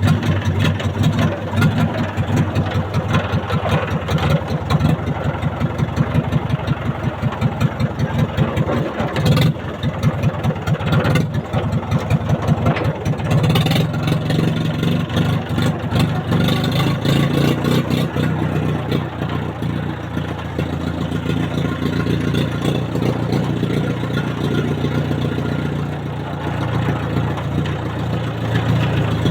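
Mahindra tractor's diesel engine running loud, its rapid firing beat rising and falling in level as the throttle changes.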